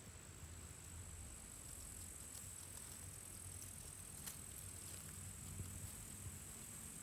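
Faint, steady chirring of crickets, with a few faint clicks.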